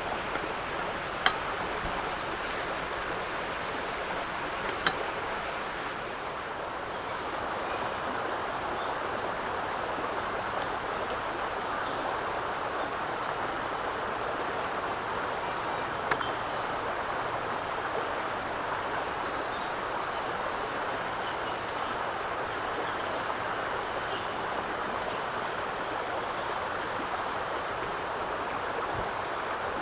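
Wood fire burning with a steady hiss, with a few sharp pops from the wood, the loudest about a second in.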